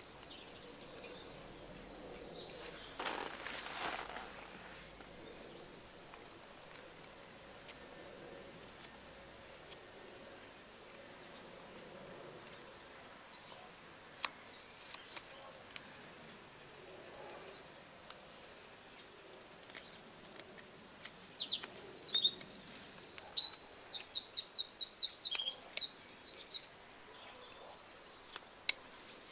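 A songbird singing high, clear phrases, loudest near the end in a burst of rapid trilling, with a few quieter chirps earlier. Faint small scrapes and ticks of a carving knife cutting dry alder wood, with one longer shaving stroke a few seconds in.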